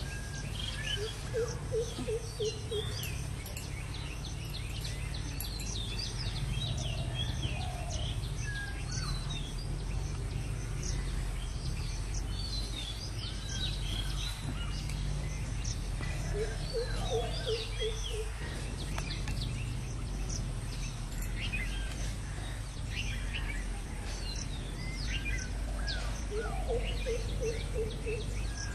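Birds calling: many short chirps and whistles, and a lower call of about six quick notes in a row that comes three times, roughly every ten seconds. A steady low rumble runs underneath.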